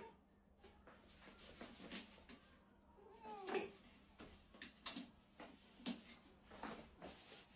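A domestic cat giving one drawn-out, complaining meow about halfway through, against faint rustling and handling noises.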